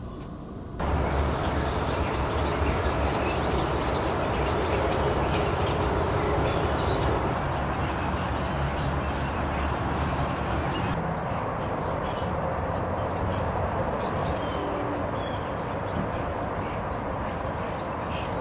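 A flock of small birds chirping and calling over one another, over a steady low rumble that comes in abruptly about a second in.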